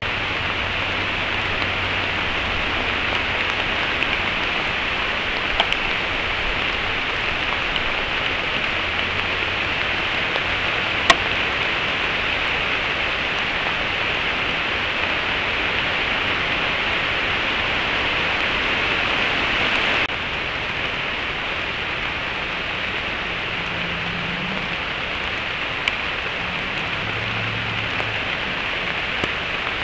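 Steady rain falling through woodland, picked up by a trail camera's microphone as an even hiss, with a few sharp ticks.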